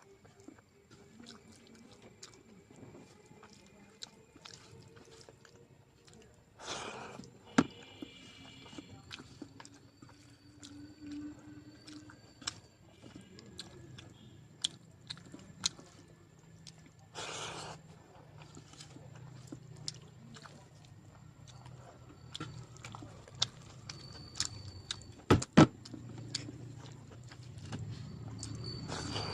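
A person chewing mouthfuls of a rice meal, with many small wet mouth clicks and a few louder crunches.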